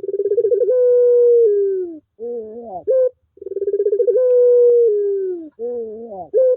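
Puter pelung dove cooing. It gives two long drawn-out coos, each opening with a fast rolling stutter, stepping up, then held and sliding down, and each followed by a short rising-and-falling phrase.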